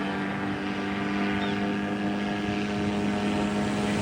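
Powered paraglider's engine and propeller running steadily in flight, a constant-pitched hum that holds level.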